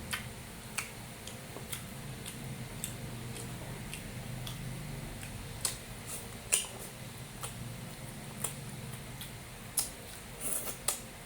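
Close-miked eating: chewing of beef and rice, heard as short sharp clicks and smacks at irregular intervals, roughly one a second, with a few louder ones near the end, over a steady low hum.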